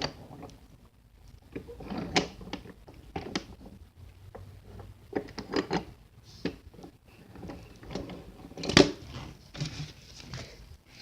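Toy trains being handled: irregular clacks, knocks and scraping as the engines are pushed and pulled against each other, with the loudest knock about nine seconds in.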